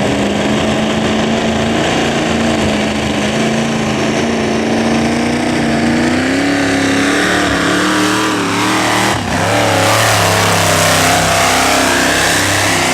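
The four 460 Holman Moody V8 engines of a four-motor modified pulling tractor, all running hard on a pull. Their pitch holds steady, climbs about halfway through, dips for a moment a little later, then holds high.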